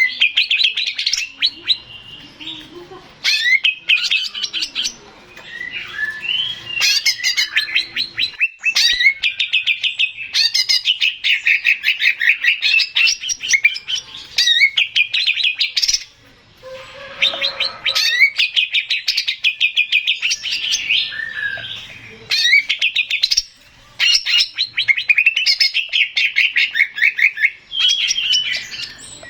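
Male green leafbird (cucak ijo) singing: long runs of rapid, sharp chattering and whistled notes, broken by a couple of short pauses.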